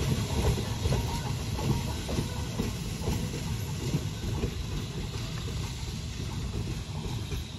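Three-car electric interurban train of the Chicago North Shore Line rolling away along the track, its wheel-on-rail noise with scattered faint clicks fading gradually as it recedes.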